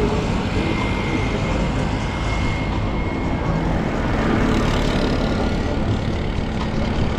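Street traffic: engines of nearby vehicles running, heard as a steady mix of engine and road noise.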